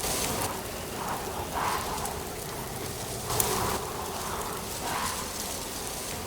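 Steady autumn wind with rustling leaves, swelling softly every second or so, with one sharp tick about three and a half seconds in.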